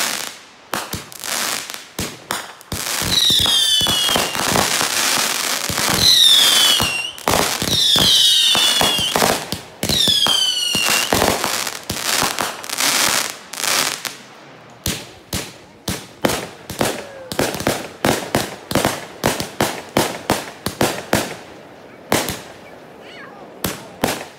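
Aerial fireworks going off in a rapid barrage of sharp bangs. In the first half, four whistles each fall in pitch over the bangs. A dense crackle follows, then a quick run of single pops, about three a second.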